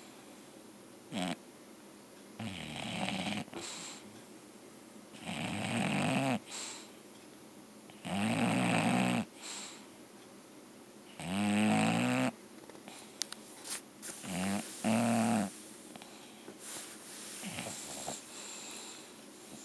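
An English bulldog snoring in her sleep, one long snore on each breath about every three seconds, giving way to weaker, irregular snuffles over the last few seconds.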